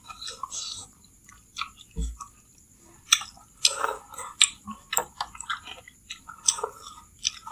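Close-miked mouth sounds of people eating chicken noodle soup: chewing, wet smacks and noodle slurps, coming as irregular short clicks.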